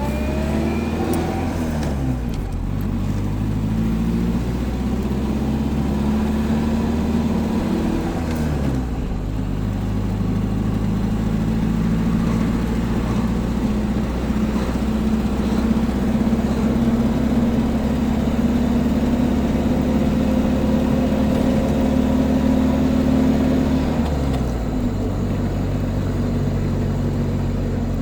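Old car's engine driving on the road: its pitch climbs under acceleration, drops sharply about nine seconds in as it changes gear, then climbs and holds before dropping again near the end, over steady road rumble.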